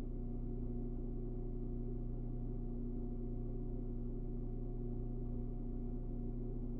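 Structure-borne vibration of a TEAC A-4010 SL reel-to-reel tape deck picked up through a contact microphone: a steady low hum made of several fixed tones, unchanging throughout.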